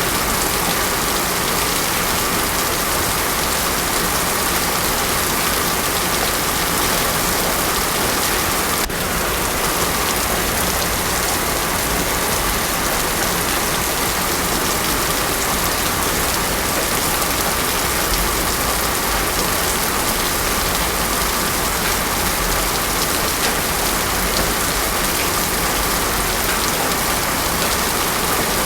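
Heavy rain pouring steadily onto a road surface: a dense, even hiss with no thunder.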